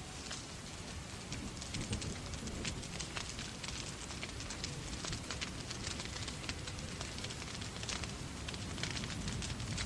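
Wood fire crackling in a fireplace, with many sharp pops and snaps, over steady rain and a low rumble.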